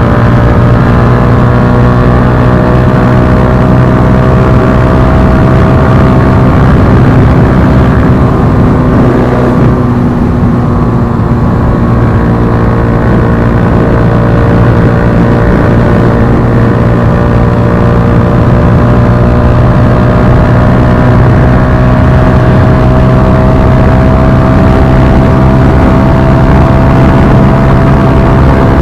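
Bajaj Pulsar NS160's single-cylinder engine running through an Akrapovic slip-on exhaust under steady riding load. The note eases briefly about ten seconds in, then climbs slowly and evenly in pitch as the bike gathers speed.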